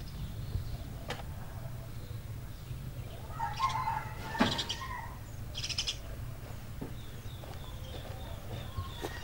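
Small birds chirping, with a quick run of short chirps near the end. Around the middle a sheet-metal tin box rattles and knocks as it is lifted and set down.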